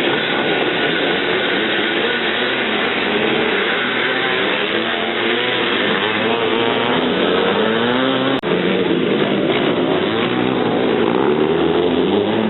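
A pack of vintage 500cc motocross motorcycles running and revving together, their engine notes overlapping and rising and falling. The sound drops out briefly about eight seconds in.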